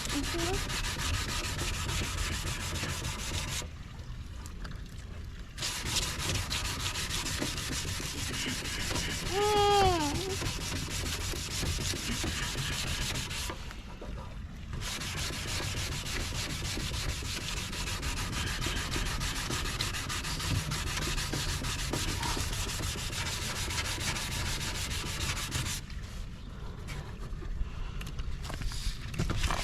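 Wet sanding of a plastic car headlight lens: a steady abrasive rubbing with water, stopping briefly a few times.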